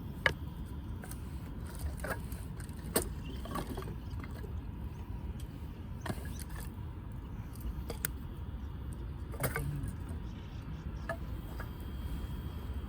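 Wood fire burning, with a steady low rumble and scattered sharp pops and crackles from the firewood, the loudest about a quarter second in and at about three seconds.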